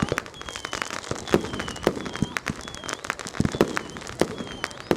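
Fireworks and firecrackers going off all around: a dense, irregular run of sharp bangs and cracks. A short high chirp repeats about twice a second throughout.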